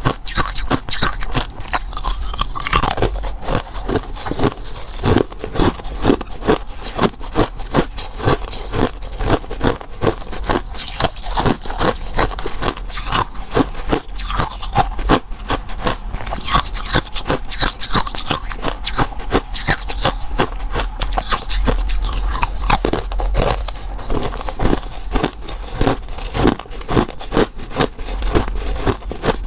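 Close-miked eating: a rapid, continuous run of crunchy bites and chewing on the golden oval treats.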